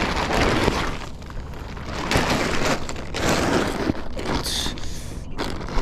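Gritty scraping and crunching against asphalt shingles in about four rough strokes, as roofing shingles are worked or pried loose along the ridge.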